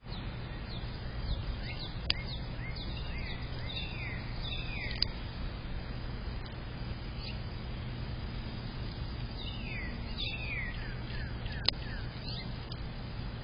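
Small birds chirping, a run of short falling chirps in two bouts, the second near the end, over a steady low background hum. A few sharp clicks stand out, the loudest near the end.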